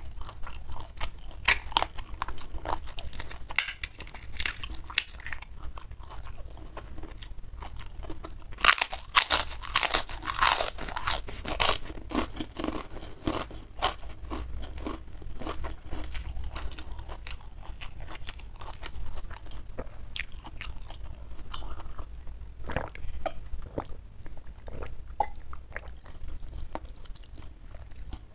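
Close-miked chewing and crunching of food in the mouth, with many short crisp crackles, densest and loudest about nine to twelve seconds in.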